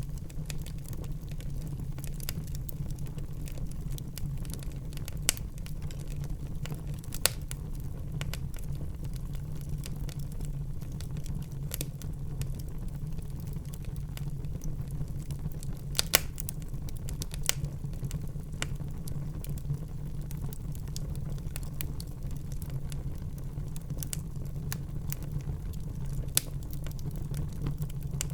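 Wood fire burning in a fireplace: a steady low rumble of the flames with scattered crackles and a handful of sharper pops.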